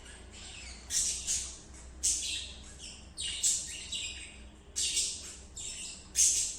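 Pet budgerigar chirping: a run of short, high chirps in quick clusters with brief gaps, the loudest near the end.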